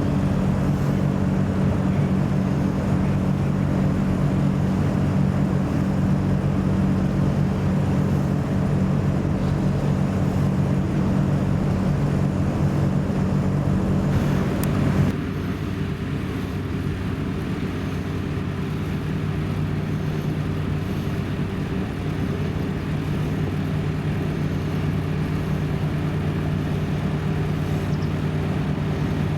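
Heavy lorry diesel engines running steadily at idle, a constant low hum. About halfway through the sound changes abruptly to a slightly quieter, differently pitched engine hum.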